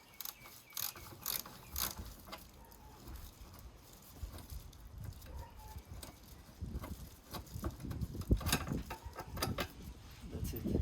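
Ratchet with an 11 mm socket clicking, with metal tool knocks, as bolts are undone in the engine bay. The clicks come in scattered runs: a few in the first two seconds, then a busier stretch over the last four.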